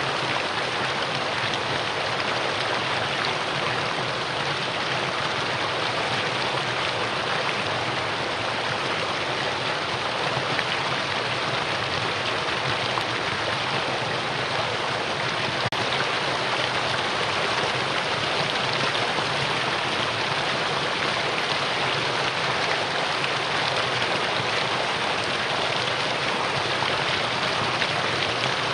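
Mountain valley stream flowing, a steady, even rush of water with no change in level.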